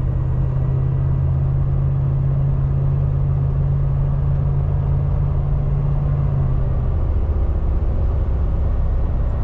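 1989 Chevy G20 van driving, its engine and road noise making a steady low drone. The engine's hum drops in pitch about seven seconds in.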